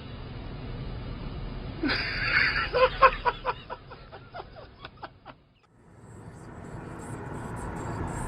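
A sudden loud noise about two seconds in, followed by a person laughing in a run of short bursts, about four a second, that fades out. After a brief gap, steady vehicle and road noise builds up.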